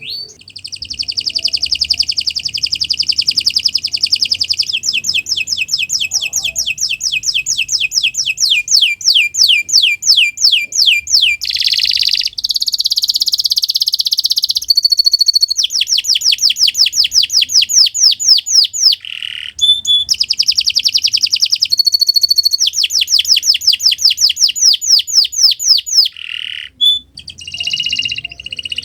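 Domestic canary singing a long, nearly unbroken song: fast rolling trills alternating with runs of quick repeated sweeping notes, switching phrase every few seconds with only brief pauses.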